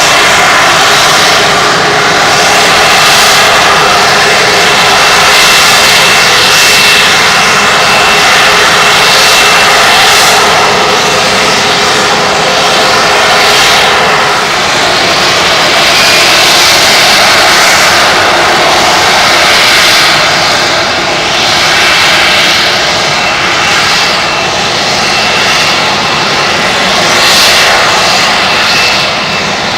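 Harrier jump jet hovering, its Rolls-Royce Pegasus engine producing a loud, steady jet roar with a thin high whine over it, swelling and fading slightly every second or two.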